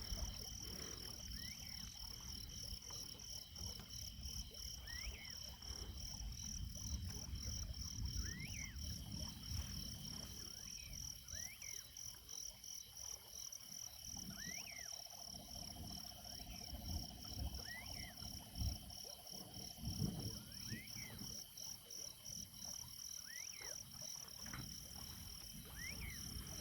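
Night chorus of insects keeping up a steady, pulsing high trill, with a frog giving short chirping calls every few seconds. A low rumble runs underneath.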